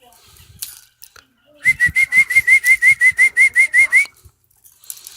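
Budgerigar giving a rapid run of about fifteen short whistled chirps, each rising at the end, at about six a second for two seconds.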